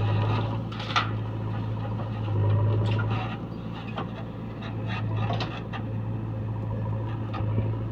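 Heavy diesel engine running steadily, with scattered knocks and clanks over it, the sharpest about a second in.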